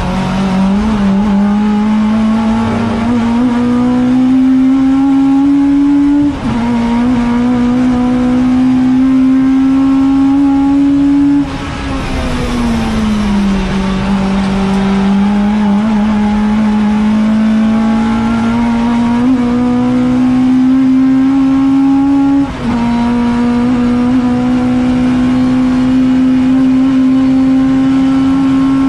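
Ford Fiesta ST150 race car's four-cylinder engine heard from inside the cabin, pulling hard through the gears: the revs climb steadily, with a quick upshift about six seconds in and another near twenty-two seconds. Around the middle the driver lifts and the revs fall away for a couple of seconds, then climb again.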